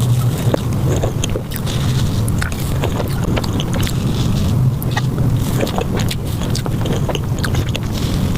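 Close-miked eating sounds played at five times speed: a dense run of quick mouth clicks and smacks over a steady low hum.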